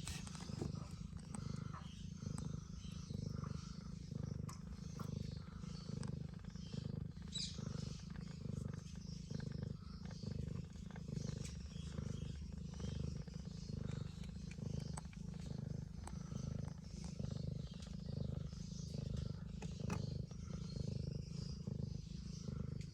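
Domestic cat purring steadily, a low rumble that swells and eases in a slow, even rhythm with each breath.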